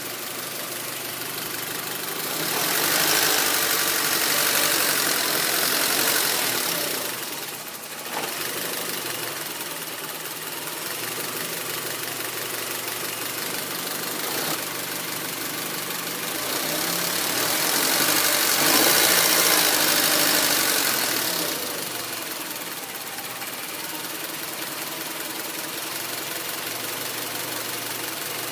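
2004 Honda Civic LX's 1.7-litre four-cylinder engine idling roughly at low rpm, growing louder twice for a few seconds; the owner suspects a failing oxygen sensor behind the rough idle.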